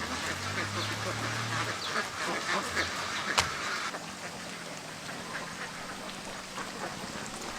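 A large flock of domestic ducks quacking, many calls overlapping into a steady chatter that thins a little about four seconds in. A single sharp click stands out just before the middle.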